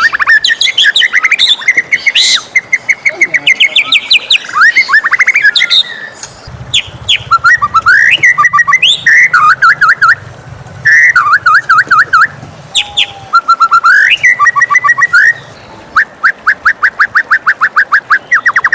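White-rumped shama singing a loud, varied song of whistled phrases, pitch sweeps and quick trills, with a long run of fast repeated notes near the end.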